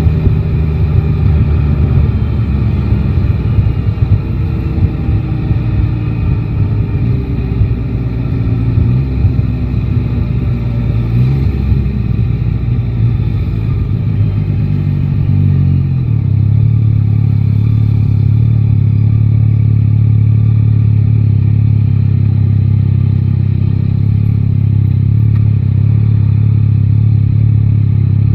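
Yamaha Tracer 9 GT's three-cylinder engine heard while riding. Its note falls in pitch through the first half as the bike slows, then settles into a steady note from about halfway.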